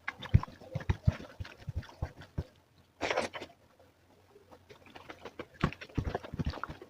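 Close-miked chewing and wet mouth sounds of someone eating, a string of irregular soft thumps and clicks with a louder noisy burst about three seconds in.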